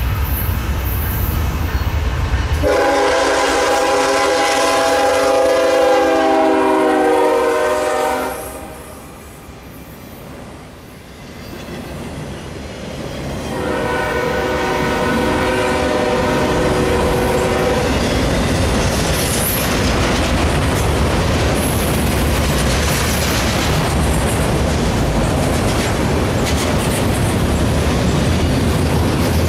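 Norfolk Southern freight locomotive's air horn sounding two long blasts as the train comes in, a chord of several notes, the first about five seconds long and the second about four. After the second blast the steady rolling noise of a long string of autorack freight cars passing takes over.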